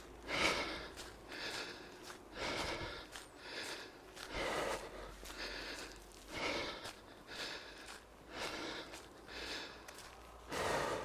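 A jogger breathing hard and rhythmically, one heavy breath about every second, out of breath from running.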